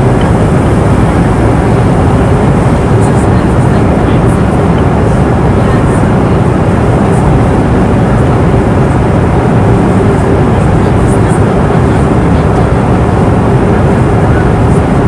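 Steady cabin noise of a passenger airplane in flight: engine and airflow noise, even and unchanging, with a steady hum running through it.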